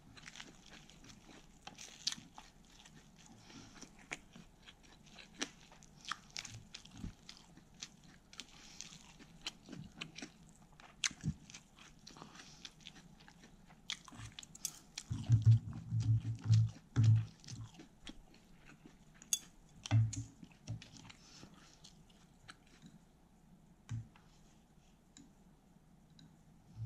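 Close-miked chewing of a lettuce wrap with thin-sliced pork belly: crisp crunches and wet mouth clicks, with a run of dull low thumps about halfway through.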